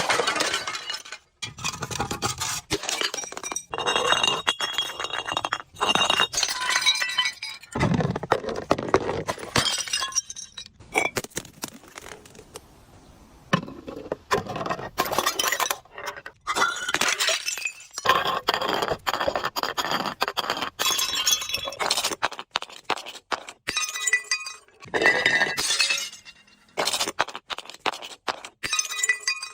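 Glass bottles being broken and crushed: dense runs of crunching, clinking and shattering glass, with short ringing glass tones, in bursts with brief pauses between.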